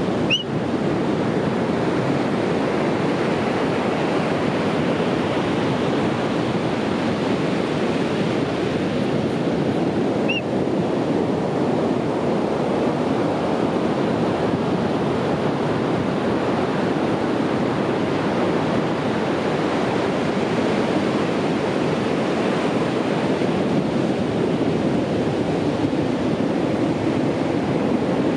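Sea surf washing onto a beach in a steady, unbroken rush of noise, with two brief high chirps about ten seconds apart.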